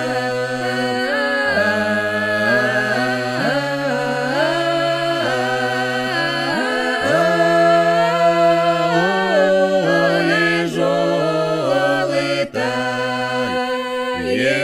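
Russian folk polyphonic singing a cappella: several voices hold long, drawn-out notes together and move between chords in steps, with a brief break for breath near the end.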